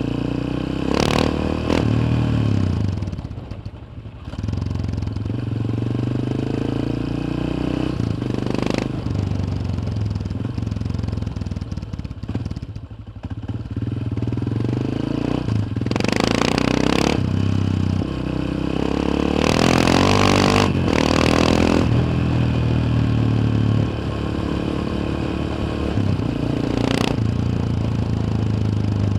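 Yamaha XT 600 single-cylinder four-stroke engine running under way, recorded onboard. The throttle closes briefly twice and the engine picks up again, with several short bursts of rushing noise over it.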